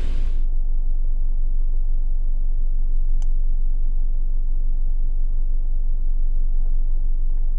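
Off-road vehicle driving, a steady low rumble of engine and drivetrain, with one faint click about three seconds in.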